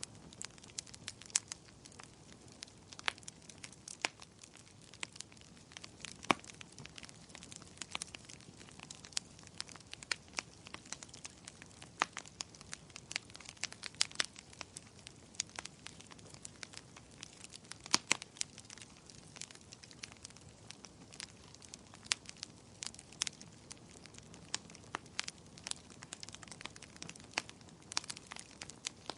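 Firewood burning in a fireplace, crackling and popping with irregular sharp snaps over a low steady hiss.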